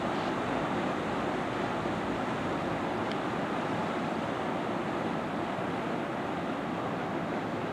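Steady rushing wash of water thrown up by a passenger river cruise ship passing fast and close.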